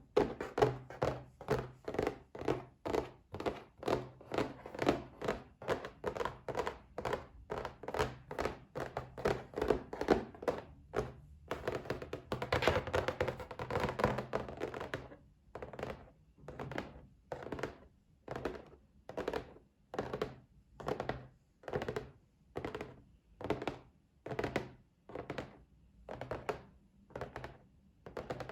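Fingers tapping on a box in a steady rhythm, about three taps a second at first, then a quick flurry about twelve seconds in, after which the taps slow to a little over one a second.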